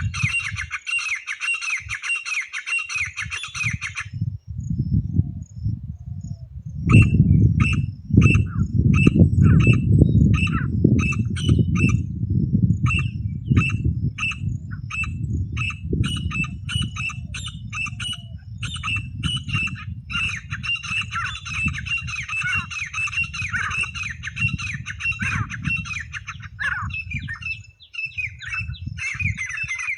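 Francolin (titar) calling: fast runs of repeated harsh notes with short pauses between bursts. Under the calls is a low rumbling noise from a few seconds in until near the end, loudest around seven to twelve seconds.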